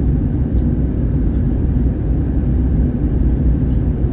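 Steady low rumble of airflow and engine noise inside the cabin of an Airbus A321 in flight, heard from a forward window seat.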